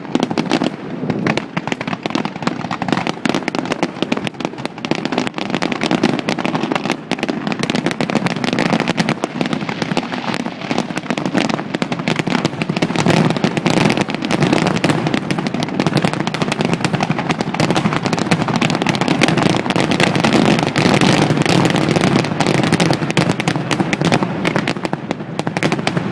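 Fireworks display: a dense, continuous barrage of bangs and crackling, growing thicker and louder from about halfway through, then stopping abruptly near the end.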